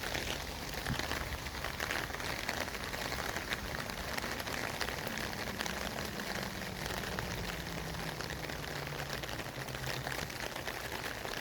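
City traffic ambience: a steady, crackly hiss like rain on a wet road, with a faint low hum that slowly falls in pitch from about four seconds in.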